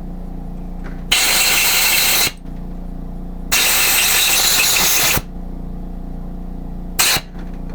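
Compressed-air blow gun blasting: two bursts, about a second and a second and a half long, then a short puff near the end.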